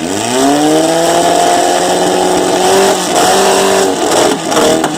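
A Volkswagen Beetle engine is revved hard for a loudness contest. It climbs to high revs right at the start and holds there for about three seconds, with a short dip partway. Near the end it drops and blips a few times.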